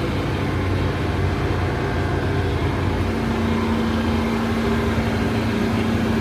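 Engine running steadily with a low hum, a higher steady tone joining in about halfway through.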